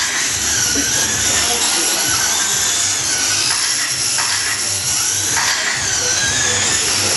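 Radio-controlled short course trucks racing: several high motor whines rising and falling as the trucks accelerate and brake around the track. A couple of knocks are heard about four and five and a half seconds in.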